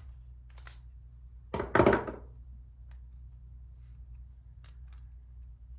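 Small plastic lens parts and tools handled during disassembly of a Sony SELP1650 zoom lens: scattered light clicks, with a louder double clatter about two seconds in.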